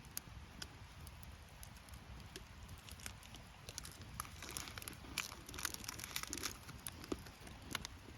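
Campfire crackling, with irregular sharp pops and snaps that come thickest in the middle of the stretch.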